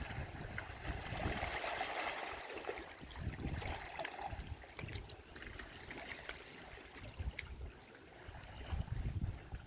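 Sea waves washing on the shore, the water hissing and trickling as it runs back. Low gusts of wind rumble on the microphone at the start and again near the end.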